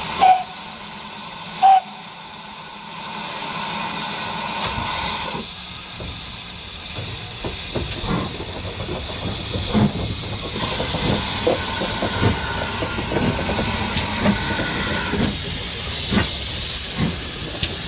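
Steam locomotive giving two short whistle toots, then blowing off steam with a steady hiss; from about six seconds in, its exhaust beats as it works away.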